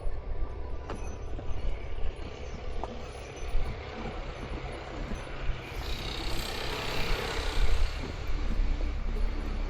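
Wind buffeting the microphone in an uneven low rumble, with a broader rushing swell building about six seconds in and easing off after about eight seconds.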